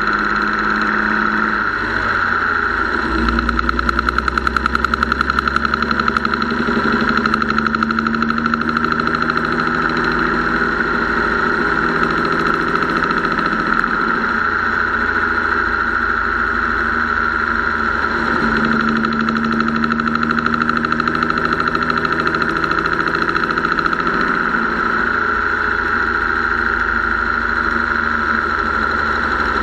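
Engine running with a rapid, steady ticking from the top end, its speed shifting up and down a few times. The owner suspects lifter/rocker or mechanical fuel pump noise, or a tired valve spring.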